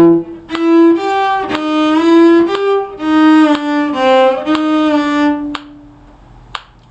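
Violin playing a short phrase of about a dozen bowed notes, with small slides into some of them. The playing stops a little over two-thirds of the way through, followed by a faint tap.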